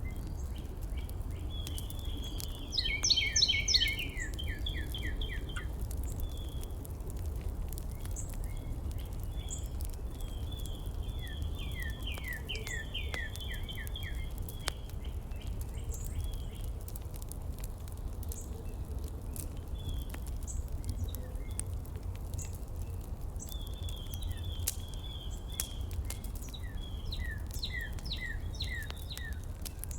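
Birds chirping in quick runs of repeated notes, loudest about three seconds in and again near the middle and near the end, over a steady low hum with faint scattered clicks.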